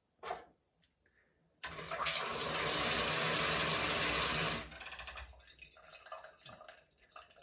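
Shower head spraying water for about three seconds, starting suddenly and shutting off, followed by dripping and small splashes. A short knock comes just before the water starts.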